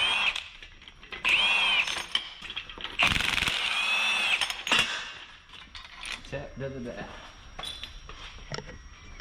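A handheld power tool runs in three bursts, its motor whine rising and falling in pitch with each. The last burst is the longest, about a second and a half. After it come a few light mechanical clicks and knocks.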